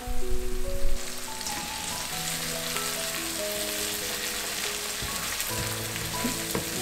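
Onion, ginger and garlic masala sizzling in hot oil in a kadai while a wooden spoon stirs it, the masala frying until well roasted. A soft background melody plays underneath.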